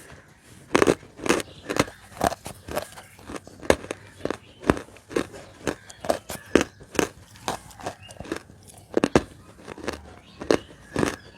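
Close-miked biting and crunching of roasted Nakumatt edible clay: sharp, irregular crunches, roughly two a second, with a brief pause near the two-thirds mark.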